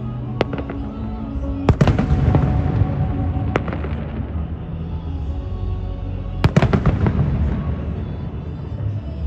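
Fireworks bursting overhead: a few sharp bangs with crackling, echoing tails, the loudest clusters about two seconds in and again near six and a half seconds, over background music playing throughout.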